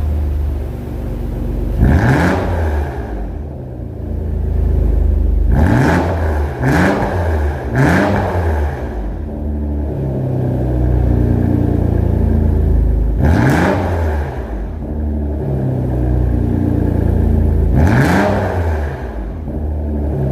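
Kia K7 3.5 V6 engine running through a custom aftermarket exhaust, idling and blipped by the throttle about six times, each rev rising quickly and falling back to idle.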